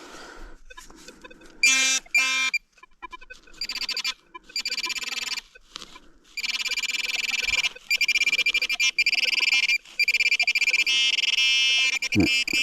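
Metal detector sounding on a target in a dug soil plug: a high, rapidly pulsing, buzzy tone in repeated bursts of one to two seconds, nearly unbroken in the second half.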